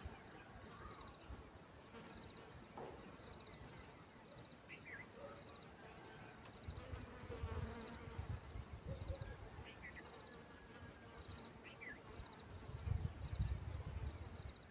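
Faint outdoor ambience: short pulsed insect chirps recurring every second or two, a few brief high chirps, and a low rumble that grows louder near the end.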